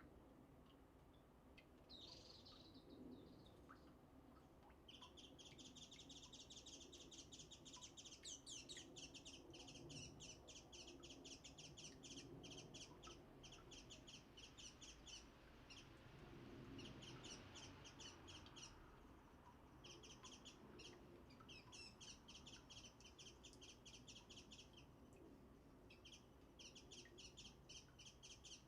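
Small songbirds chirping in long runs of rapid, high repeated notes, broken by a few short pauses.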